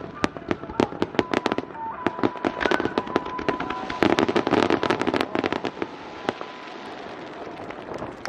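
Aerial fireworks bursting in rapid succession, a dense run of sharp cracks and pops that is loudest and fullest about four seconds in and thins out near the end.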